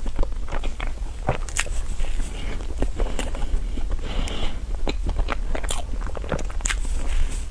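Close-up eating sounds of a cream roll being bitten and chewed, with many short, sharp clicks of the pastry at an irregular pace.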